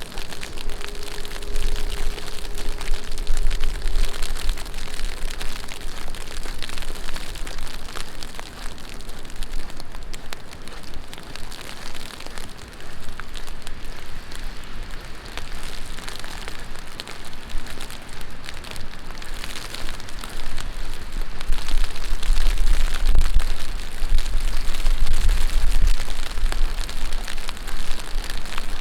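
Heavy rain falling on a city street, a dense, steady patter of drops. Low rumbles come through about a second in and again in the last few seconds.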